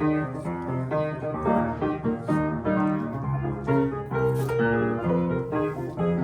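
Solo piano playing a short interlude, a brisk run of notes one after another.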